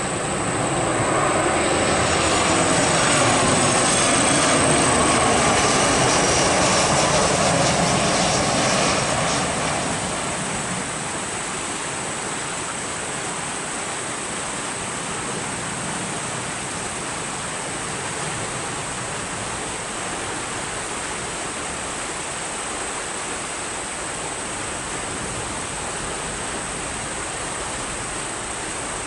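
Airliner engines passing close, loudest over the first nine seconds or so with a high whine, then dropping away to a steady rushing noise.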